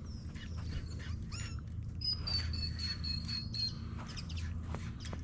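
Birds calling from the reeds: scattered short high chirps, and a thin high whistle held for about a second and a half partway through, sliding slightly down in pitch.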